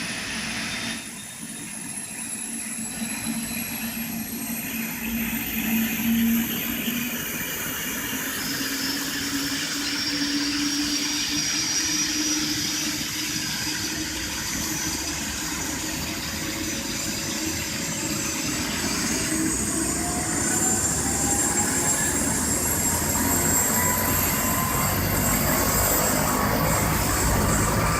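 Helicopter turbine engine starting up: a whine that climbs slowly in pitch and grows steadily louder as the engine and rotor spool up.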